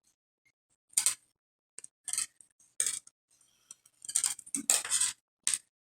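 Plastic pony beads clicking and clattering against each other and the aluminium craft wire as they are handled and pulled into place: a few short clicks, then a busier run of rattling near the end.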